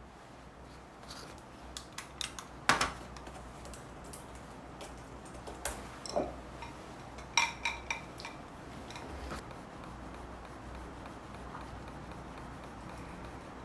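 Dishes and cutlery being handled: scattered short knocks and clicks, with a ringing clink about seven seconds in, then only a faint steady background.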